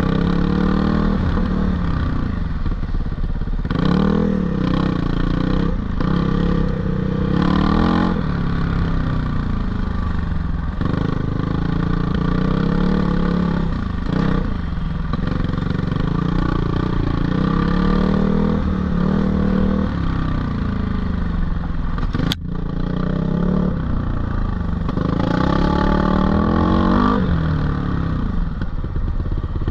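GPX 450R four-stroke dirt bike engine revving up and down over and over as the throttle is opened and closed. A single sharp knock cuts through about 22 seconds in.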